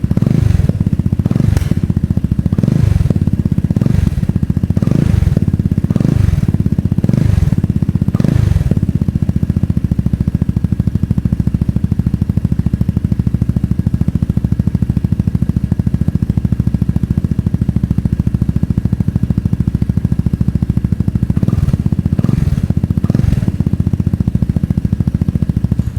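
Lambretta X300 scooter's single-cylinder engine through a ZIIV Project SP aftermarket exhaust, blipped repeatedly, about once a second, for the first several seconds. It then idles steadily and is revved a few more times near the end.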